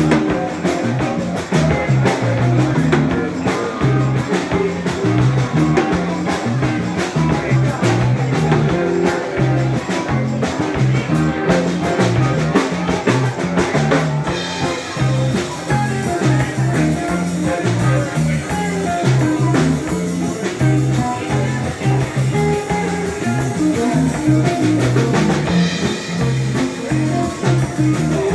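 Live rock band jamming: electric guitar, bass and drum kit playing an instrumental groove with a steady beat.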